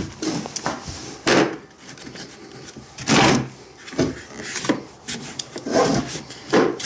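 About five short scrapes and knocks of things being handled and set down during workbench work on a motorcycle.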